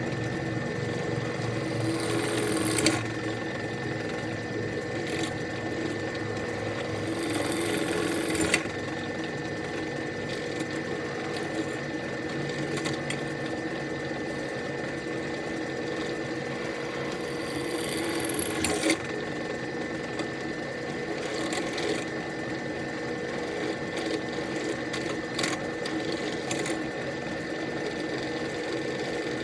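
Electric drill running with a steady motor whine while drilling holes in a steel motorcycle exhaust baffle. Three times the sound briefly gets louder and harsher as the bit cuts through the metal.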